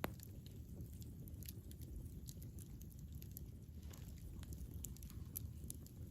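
Campfire burning: a low steady rush with irregular sharp crackles and pops from the burning wood, the loudest right at the start.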